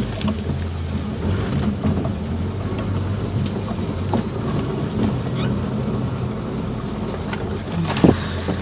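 Suzuki Jimny engine running steadily at low revs, with scattered knocks and clicks and a sharp knock about eight seconds in.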